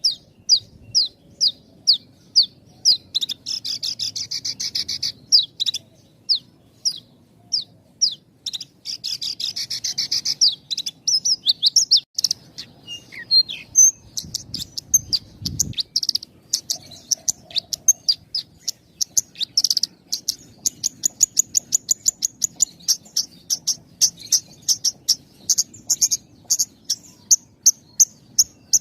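Javan bush lark (branjangan) singing: a long run of quick, high chirping notes with only short pauses between phrases, broken by denser trilled passages and speeding up into fast rattling series near the end.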